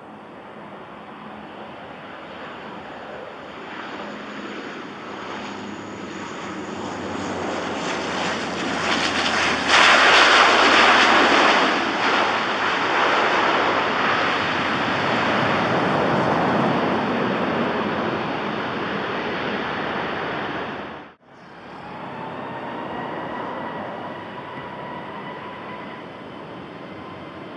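De Havilland Canada Dash 8-400 turboprop on its landing approach, its engine and propeller noise swelling to a peak about ten seconds in and then fading. About twenty-one seconds in the sound cuts abruptly to an Airbus A321neo's jet engines, a quieter steady whine with high tones.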